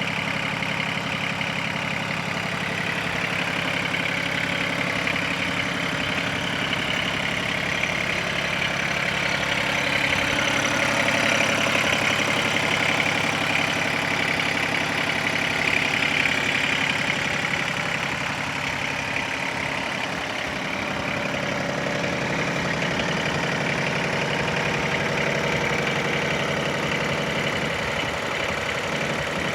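Kubota compact tractor's diesel engine idling steadily, a little louder around the middle.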